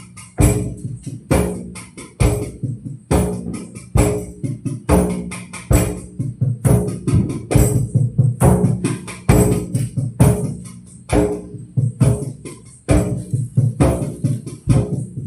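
Hand drum and tambourine jingles played together in a loose rhythm, about one to two beats a second. Each stroke gives a low, ringing drum tone with a bright jingle on top.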